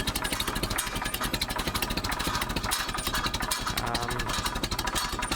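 Ferguson TED 20 tractor's four-cylinder engine idling slowly and steadily, a rapid even run of exhaust pulses through an exhaust with no silencer.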